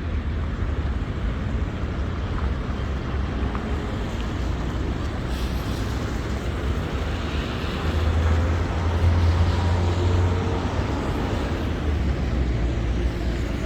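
City street traffic in the rain: a steady wash of engine and tyre noise with a deep rumble that swells for a couple of seconds past the halfway point.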